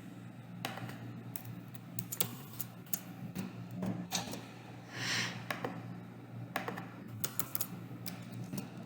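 Typing on a computer keyboard: irregular bursts of keystroke clicks over a steady low hum.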